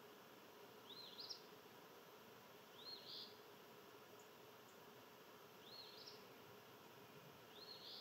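A songbird repeating the same short, high song phrase four times, about every two seconds, faint over a steady background hiss.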